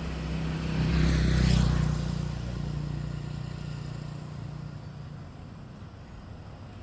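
A motor vehicle's engine passes close by, growing loudest about a second and a half in, then fading away.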